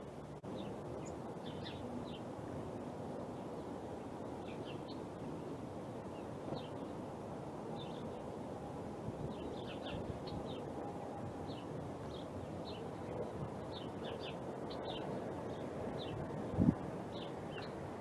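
Small songbirds chirping: many short, high chirps scattered throughout, over a steady low rumble of outdoor background noise. A single low thump near the end.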